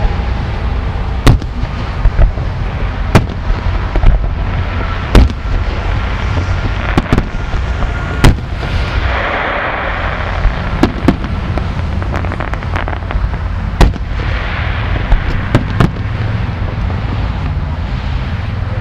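A fireworks display: more than a dozen sharp bangs of shells bursting at uneven intervals, with a burst of crackling about nine seconds in, over a steady low rumble.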